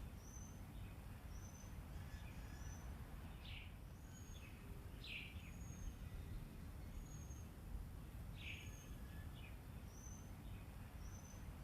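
Faint birdsong: short high chirps about once a second, with a few longer falling notes, over faint low background noise.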